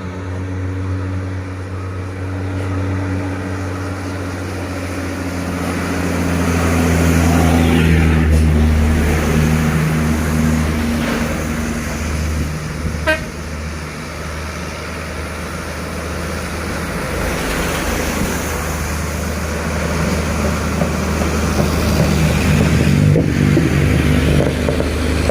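Heavy diesel trucks grinding up a hill, their engines droning low and rising in pitch as they pull past, with tyre noise. There is a brief horn toot about halfway through.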